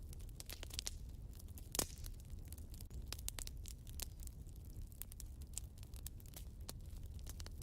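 Wood fire burning in a fireplace: irregular crackles and snaps over a low steady rumble of the flames, with one louder pop about two seconds in.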